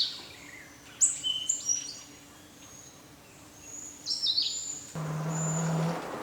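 Songbirds chirping in several bursts of quick, high, falling notes. About five seconds in, a steady low hum with hiss comes in for about a second.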